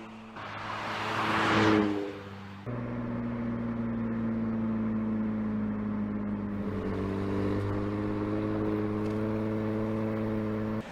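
A car's engine and tyres rush past and fade in the first two seconds. Then an abrupt cut to the steady, even drone of the 2017 Porsche Panamera Turbo's twin-turbo V8 running at constant revs, which stops suddenly near the end.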